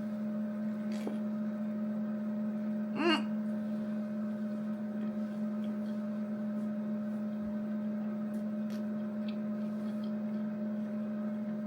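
A steady hum runs throughout, under faint crunches of someone chewing a crispy fried chicken sandwich. A short hummed "mm" comes about three seconds in.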